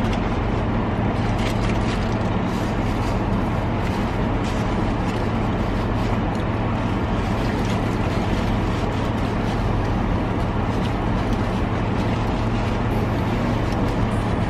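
Steady low hum and rush of a vehicle idling, heard from inside its cabin, with faint rustling of a paper napkin being handled.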